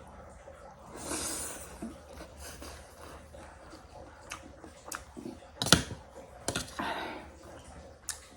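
Close-up eating sounds: chewing with a run of sharp clicks and taps, the loudest a little before six seconds in, and a couple of soft noisy swishes such as slurps or breaths.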